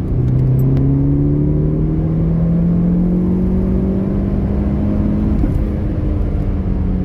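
Tuned Saab 9-5 wagon's turbocharged engine and modified exhaust accelerating hard. The engine note climbs steadily for about five seconds, breaks briefly, then holds.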